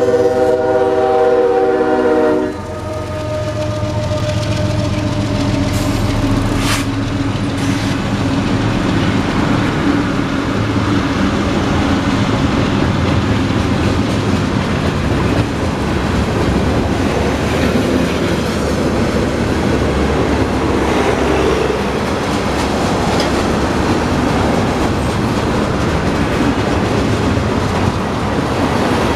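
Union Pacific diesel locomotives' air horn sounding a chord, cutting off about two and a half seconds in. Then the locomotives and a long string of freight cars roll past with a steady, loud rumble of wheels on rail, the train beginning to slow.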